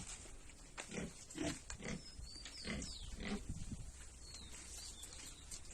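Pigs grunting, about half a dozen short low grunts in the first half, with a few brief high bird chirps in between.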